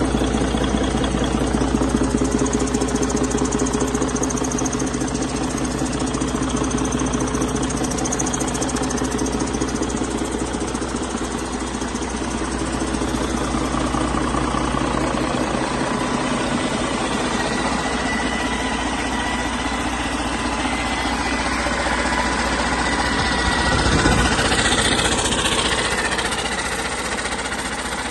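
2014 Detroit DD15 14.8-litre diesel truck engine running steadily during a test run, with a brief louder swell about 24 seconds in.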